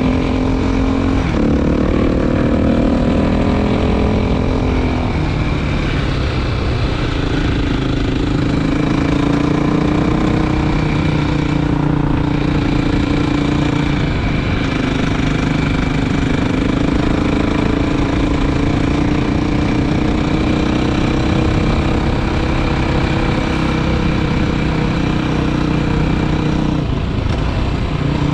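Motorcycle engine running under way, with road and wind noise. The revs climb over the first few seconds, then drop and settle into a long steady cruise, easing off near the end.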